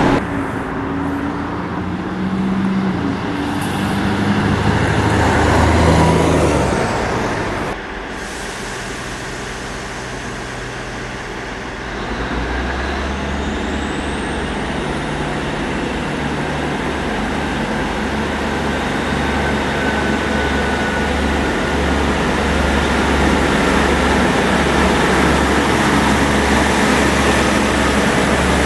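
Road traffic with a bus running past, then a diesel passenger train pulling into a station platform. Its engines drone low and steady, growing slightly louder as it comes alongside, with a faint falling whine over the drone.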